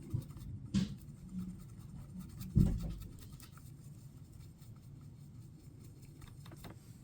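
Light scratching and rubbing as colour flakes are burnished into a resin mold, with a few soft knocks, the loudest about two and a half seconds in.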